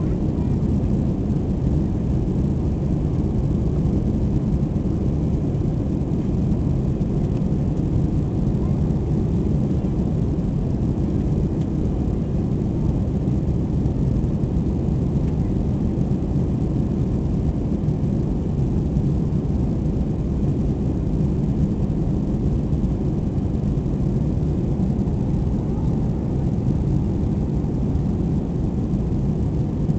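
Airbus A320 cabin noise in the climb: a steady low drone of the engines and rushing air, heard from inside the passenger cabin.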